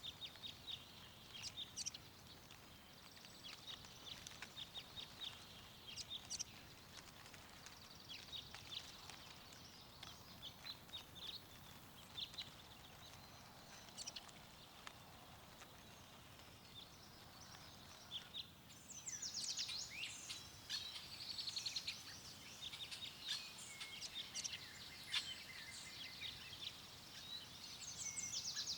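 Small songbirds chirping and trilling over a faint steady wind. Scattered calls give way to a dense chorus of overlapping song about two-thirds of the way in.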